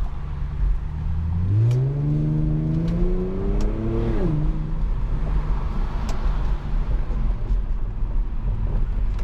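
Infiniti G37's 3.7-litre V6 through a custom exhaust, heard with the windows down, on a light second-gear pull. It runs steadily low, then from about a second and a half in its note rises for nearly three seconds before falling sharply. It then settles back to steady cruising.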